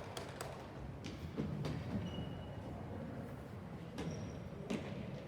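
Ball game in a large hall: scattered sharp thuds of a ball and a few brief high squeaks over a steady low rumble of the room.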